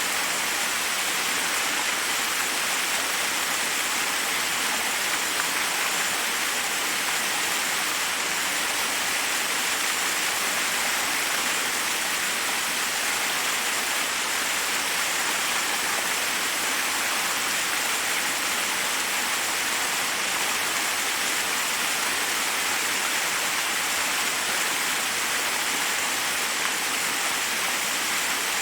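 Forest waterfall rushing over rocks: a steady, even hiss of falling water with no breaks.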